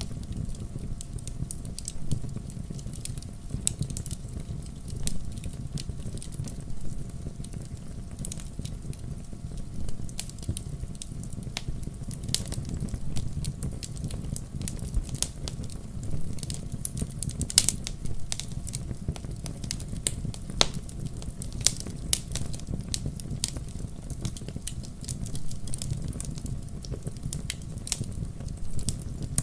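Wood fire crackling, with irregular sharp pops over a steady low rumble. One louder pop comes a little past the middle.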